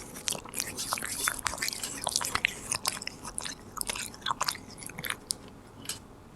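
Korean shorthair cat chewing a treat with quick, sharp bites that thin out and fade about five seconds in.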